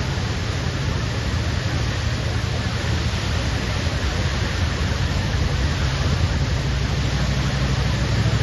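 Waterfall's steady rushing noise: an even, continuous wash with a heavy low rumble underneath.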